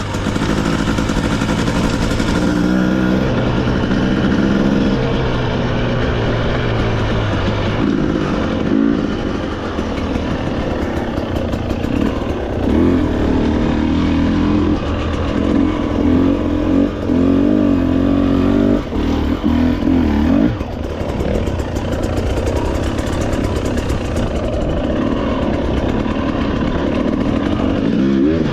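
Off-road motorcycle engine running on a trail ride, its pitch rising and falling as the throttle opens and closes, with scattered clatter over rough ground.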